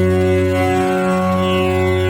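Tanpura drone tuned to F sharp: its strings are plucked in a continuous cycle, each note ringing into the next with a buzzing, shimmering overtone sweep.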